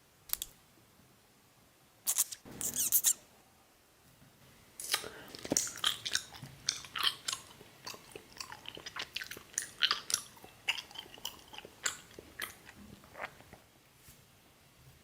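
Close-miked, ASMR-style biting and chewing of food: a crunchy bite about two seconds in, then a long run of wet chewing smacks and clicks that tails off near the end.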